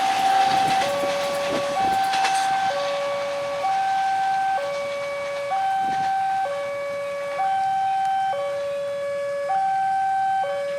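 Railway level-crossing warning alarm sounding a two-tone hi-lo signal, each steady tone held about a second in turn. The last clatter of a passing train fades out in the first two seconds.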